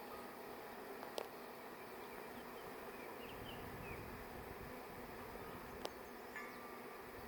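Faint steady buzzing of a honey bee swarm, with two sharp clicks, one about a second in and one near the end.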